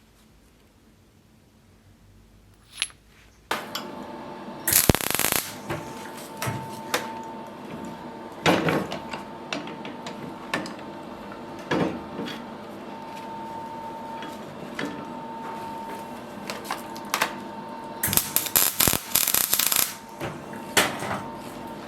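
Metalworking in a workshop: after a near-quiet start, a steady hum comes on about three and a half seconds in, with irregular metal knocks, clinks and scrapes over it, clustering briefly twice.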